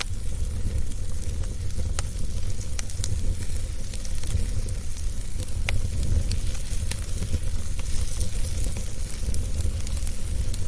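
Wood fire burning in a fireplace, a steady low rumble and hiss with scattered sharp pops and crackles at irregular intervals.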